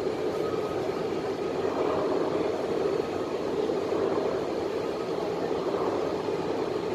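Interior running noise of an MTR West Rail Line C-Train electric multiple unit travelling between stations: a steady rumble of wheels on rail and running gear.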